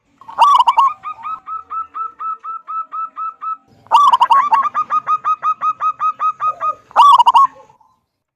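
Zebra dove (perkutut) singing two phrases. Each opens with a loud note, followed by a fast, even run of about six short notes a second; the second phrase ends with a loud closing note.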